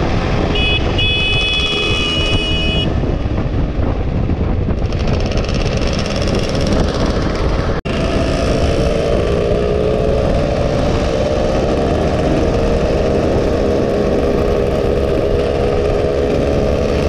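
Two-stroke motorcycle engine running at road speed with heavy wind rush on the microphone. A brief high, steady tone sounds near the start. After a sudden short cutout about eight seconds in, the engine note holds high and climbs slowly.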